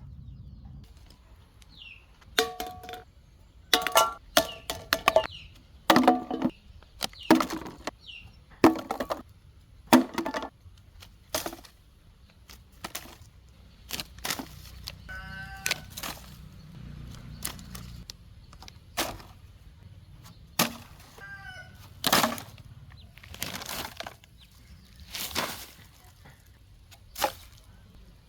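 Irregular sharp knocks and crackles, roughly one a second, some with a short ringing tone.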